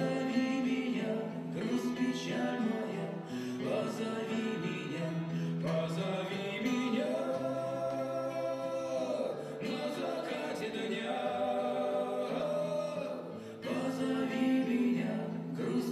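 Choral music: a choir singing long held notes that change slowly from chord to chord.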